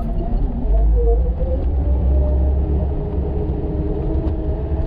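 Engine of a snow-plowing machine running steadily: a deep rumble with a whine that drifts slowly up and down in pitch.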